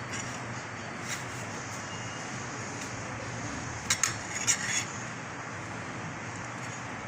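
A few clinks of a utensil against a bowl while chicken is mixed into a marinade: one about a second in, then a quick cluster of about four a few seconds later, over a steady background hum.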